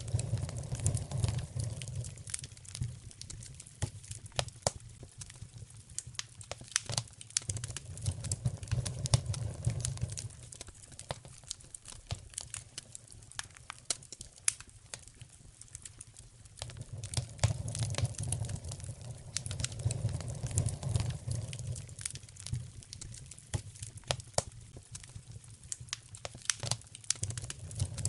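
Wood fire in a fireplace crackling, with frequent sharp pops and snaps over a low rumble that swells and fades twice.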